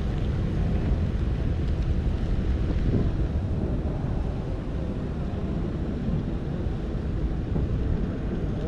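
Wind buffeting the microphone over the steady low rumble of a boat's outboard motor running underway.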